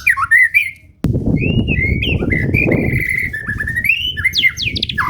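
White-rumped shama singing a continuous run of varied, fast whistled phrases. From about a second in, a low rumbling noise runs underneath the song.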